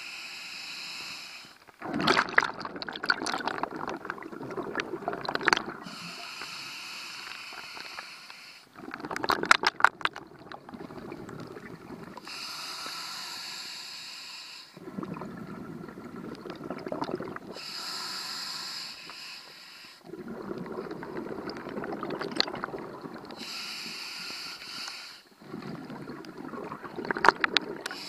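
Scuba diver breathing through a regulator underwater. A steady hissing inhale through the demand valve alternates with a longer rush of exhaled bubbles, about five breaths in all.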